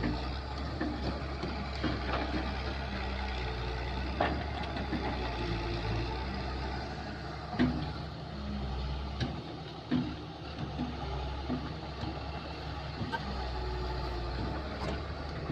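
Kobelco excavator's diesel engine running steadily, with a few sharp knocks and clanks from the machine working.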